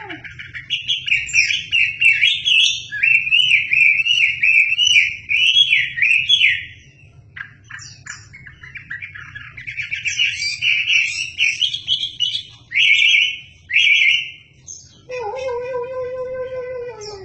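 Wambi songbird singing energetically in fast, chattering phrases of quick up-and-down notes, with a short break partway through. Near the end the song stops and a lower, steady pitched sound with overtones takes over.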